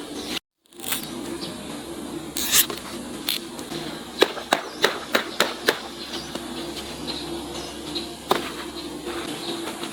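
A string of sharp clicks or pops over a steady background noise. About a dozen come singly and in quick runs, most of them between about four and six seconds in. Just before them, near the start, the sound cuts out completely for a moment.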